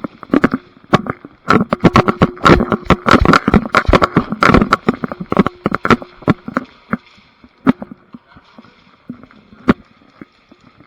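Airsoft guns firing: rapid runs of sharp cracks, dense for about four seconds, then thinning out to scattered single shots.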